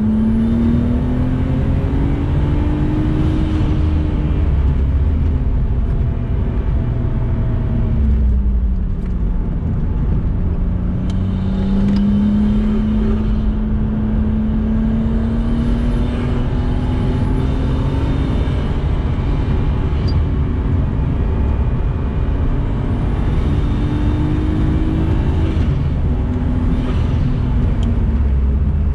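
Turbocharged 2.0-litre straight-six (RB20DET) of an R32 Nissan Skyline GTS-t heard from inside the cabin while lapping a track, with a steady low rumble of road noise. The engine note climbs for the first few seconds, falls away between about four and nine seconds in, climbs slowly again for the next several seconds, then rises and drops once more near the end.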